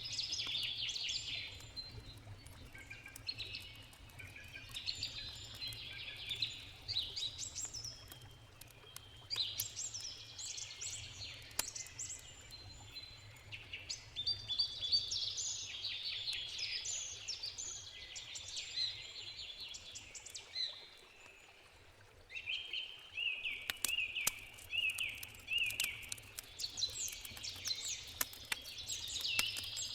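Several birds singing in short, overlapping phrases, including a run of repeated notes a little after the middle. Campfire crackles and pops sound through it over a steady low rush of a river.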